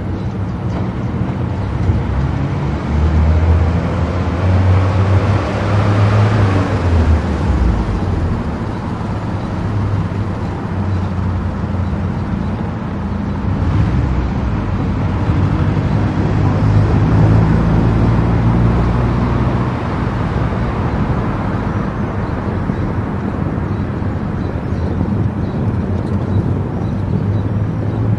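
Road and engine noise of a car driving at speed on an expressway: a steady low drone with a rushing hiss over it, swelling louder around six seconds in and again about two-thirds of the way through.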